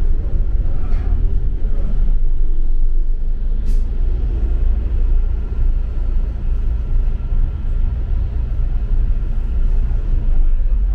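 Double-decker bus in motion, heard on board: a steady low rumble of engine and road noise. There is a single sharp click about four seconds in.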